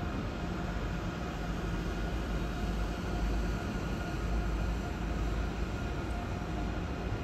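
ICE high-speed train rolling slowly through the station: a steady low rumble of wheels on rail with a faint steady hum above it.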